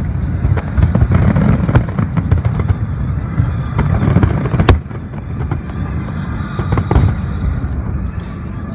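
Fireworks exploding in quick succession: dense low booms with many sharp cracks, the sharpest nearly five seconds in, after which the barrage eases a little.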